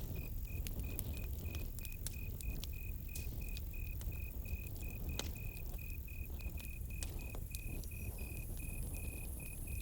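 Campfire crackling with scattered sharp pops over a low rumble, while a cricket chirps steadily at about three chirps a second.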